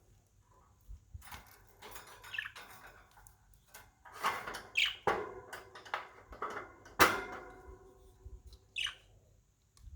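Pet budgerigars chirping in a few short calls among small clicks and rattles. About four seconds in and again about seven seconds in, a sharp knock rings briefly; the second is the loudest sound.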